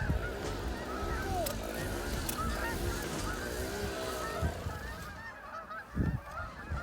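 A large flock of geese honking, many short calls overlapping into a continuous chorus. A few dull low thumps come through, the strongest about six seconds in.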